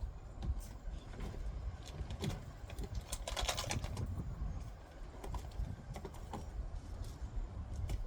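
Birds calling in the garden, with a burst of rustling handling noise about three and a half seconds in, over a steady low rumble.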